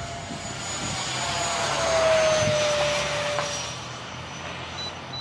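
Whine of the Dr Mad 68mm electric ducted fan (10-blade fan) on an RC jet in flight. It grows louder to a peak about two seconds in, then drops slightly in pitch and fades as the jet flies away.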